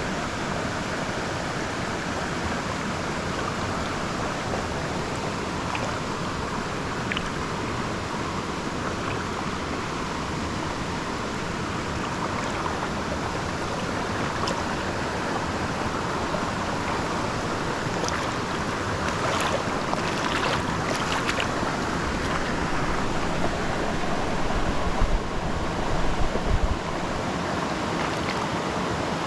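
River water rushing steadily, with a few short sharp sounds about twenty seconds in and low rumbles of wind on the microphone near the end.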